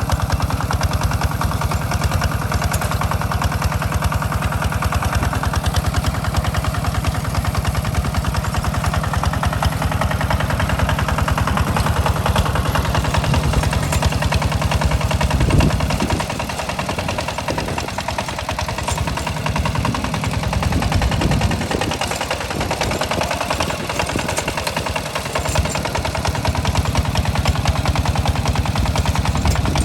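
Hand tractor's engine running steadily with a rapid chugging beat while ploughing a rice paddy. The low thumping eases and becomes uneven for a stretch in the middle, then comes back strong near the end.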